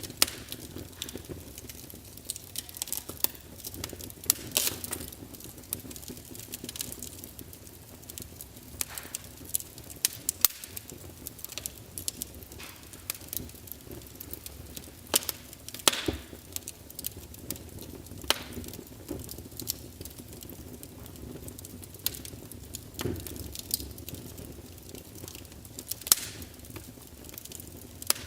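Wood fire burning in a fireplace: logs crackling with irregular sharp pops over a steady low hiss and rumble of the flames.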